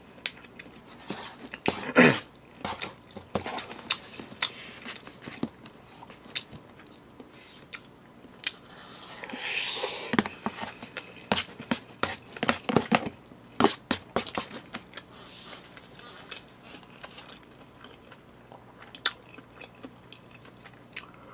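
A person eating close to the microphone: wet chewing and biting sounds, with scattered sharp clicks and taps of a fork against a plastic takeout tray.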